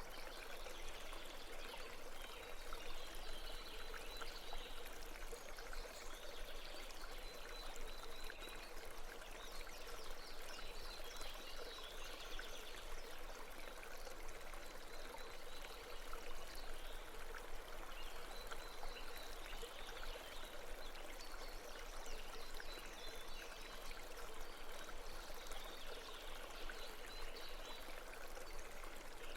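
A stream or brook running and babbling steadily, an even wash of flowing water.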